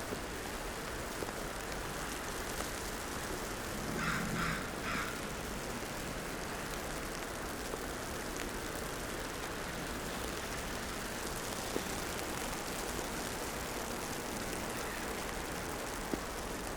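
Steady downtown street ambience in falling snow: a continuous hiss of traffic and wet precipitation. About four seconds in, three short calls sound in quick succession.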